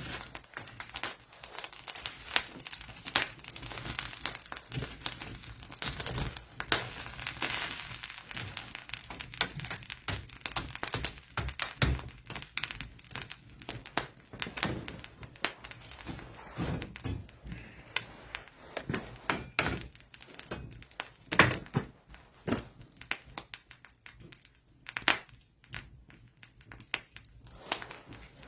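Irregular handling noise: a quick run of small knocks, clicks and thunks with some crinkling, as objects are picked up, moved and set down. One thunk about three quarters of the way through is the loudest, and the knocks come more sparsely near the end.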